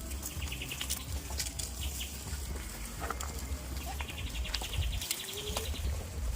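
Goats in a farm pen: scattered clicks and knocks of the animals moving about, over a low rumble that drops out about five seconds in. A rapid, evenly pulsed high chirring comes twice, briefly at the start and again from about four seconds in.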